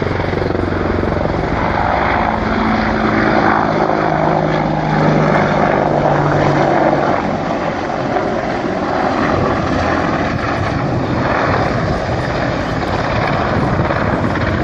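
Loud aircraft noise, a dense roar with several steady engine or propeller tones that fade about seven seconds in while the roar goes on.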